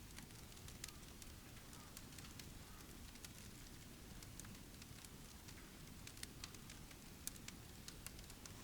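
Faint, irregular crackling of a wood fire burning in a titanium tent wood stove, scattered single snaps over a low steady background noise.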